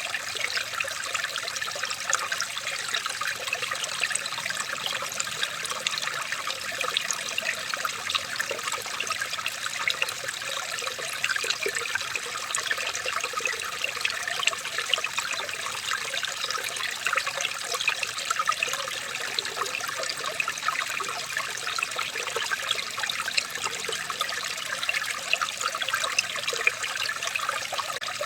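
Running water trickling steadily, with a constant patter of tiny splashes.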